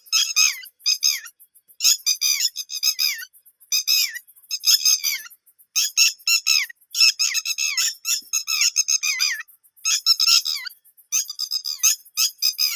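Several young birds calling together: rapid bursts of shrill, squeaky chirps, repeated in clusters with short pauses between them.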